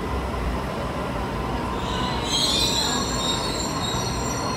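Double-deck electric suburban train pulling into an underground platform with a steady low rumble. About two seconds in, a high-pitched squeal sets in as it slows for the stop.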